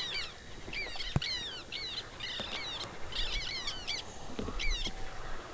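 A songbird singing in repeated phrases of quick, downward-sweeping notes, with a single sharp knock about a second in.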